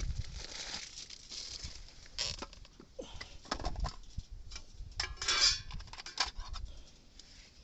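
Irregular rustling with light clatter and clicks, the loudest bursts about two, three and a half and five and a half seconds in, over a low rumble of wind on the microphone.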